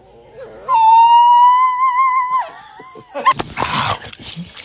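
A dog howling one long, high, slightly wavering note that drops away at the end, followed by a short noisy burst.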